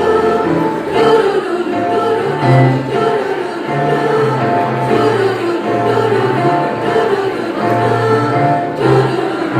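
Choir singing in harmony, holding sustained chords that change every second or so.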